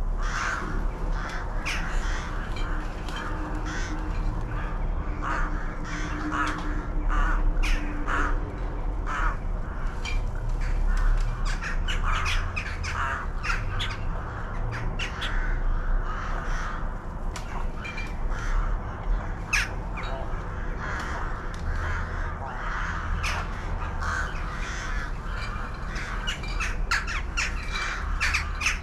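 Many birds calling at once: a dense, overlapping run of short, harsh calls.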